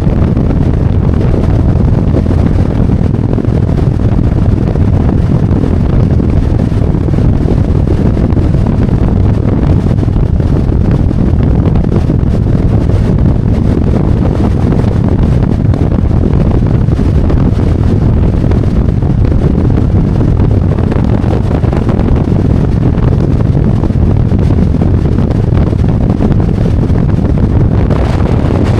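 Harley-Davidson Road Glide's V-twin engine running as the bike rides along, with heavy wind rumble on the rider's microphone. The sound is steady throughout.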